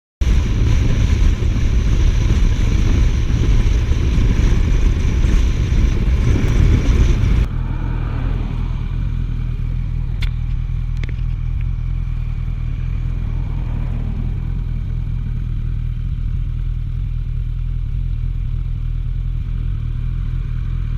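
Suzuki GSF1250S Bandit's inline-four engine running while riding, under heavy wind rush. About seven seconds in, the wind noise drops off abruptly, leaving a steadier, lower engine drone.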